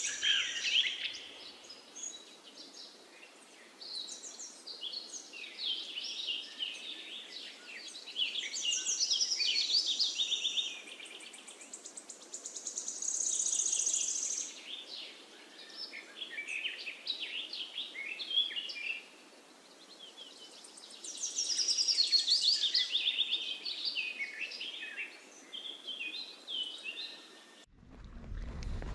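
Songbirds chirping and trilling, many short, high calls overlapping and coming in louder spells. There is no low engine or road sound beneath them.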